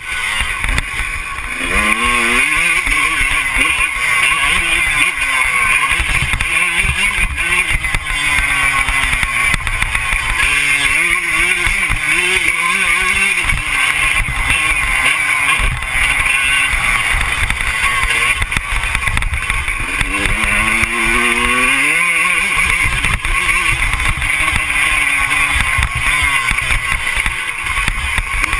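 Motocross dirt bike engine revving hard and dropping back again and again, its pitch climbing and falling as it rides, over a steady loud noisy rumble.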